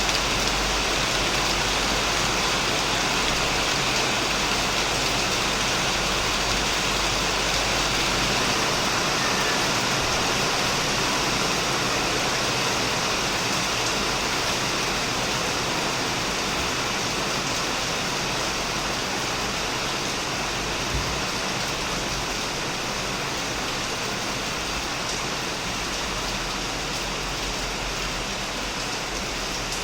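Heavy rain falling steadily on a shed roof, an even hiss of drops that eases a little toward the end.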